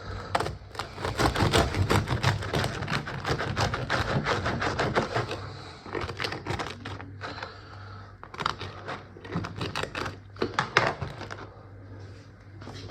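A knife sawing through the crust of a freshly baked homemade loaf: a fast run of dry crackling crunches that pauses briefly about seven seconds in, then resumes. A steady low hum runs underneath.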